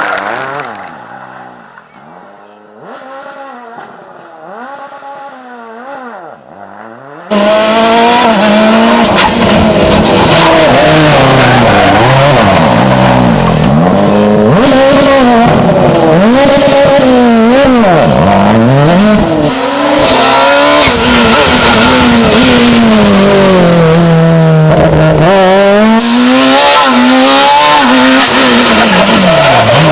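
Rally car engines at full stage pace: first a car farther off, its revs rising and falling, then about seven seconds in a sudden switch to a much louder car close by, revving hard and repeatedly climbing and dropping through the gears.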